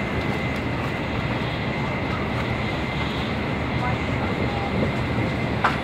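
Cabin running noise of a Tokaido Shinkansen train at speed: a steady low rumble and rush with a thin steady high whine, and a brief click near the end.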